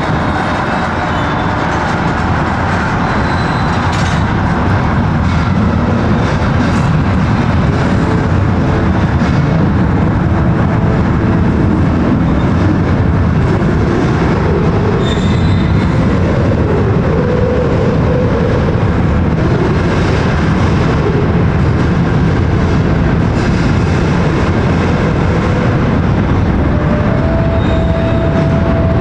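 An 82,400-ton bulk carrier's hull sliding down the slipway at its launch: a loud, continuous rumble that swells a little over the first few seconds and then holds steady.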